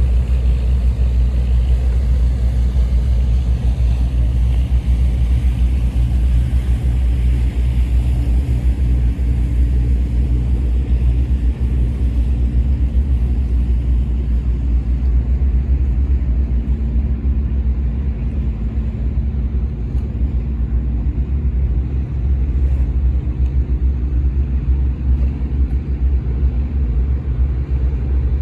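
Squid-fishing boat's engine running steadily with a deep, continuous rumble. A hiss of wind and water over it is strong at first and fades about halfway through.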